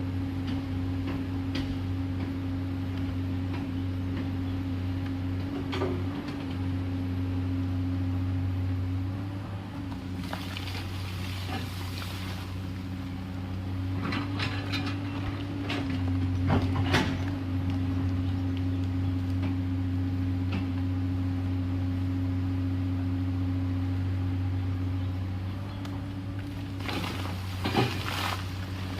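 Komatsu PC210LC excavator's diesel engine running steadily, its note shifting under load several times. Knocks and scrapes, heaviest near the middle and near the end, come from the bucket working rock and soil.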